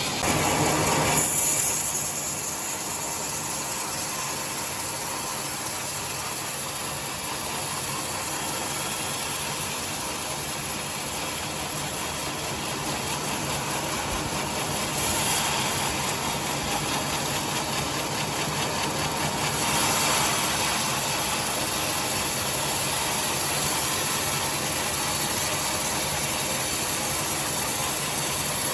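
Sawmill machinery running steadily while boards are ripped: a constant machine hum under a hiss, swelling briefly louder about a second in and twice more later.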